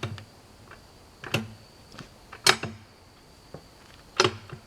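Sharp metallic clanks of a jack being worked to lift and roll a log, four louder strokes about a second apart with fainter clicks between, each ringing briefly.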